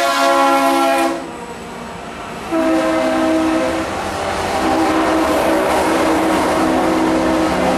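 Norfolk Southern freight train: the locomotive horn sounds a chord that cuts off about a second in. The covered hopper cars then roll past with a steady rumble, with pitched tones coming and going over it.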